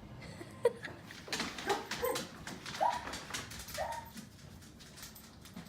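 Pit bull whimpering in four short, high whines, the last two rising and held briefly, with light clicks and rustles between them.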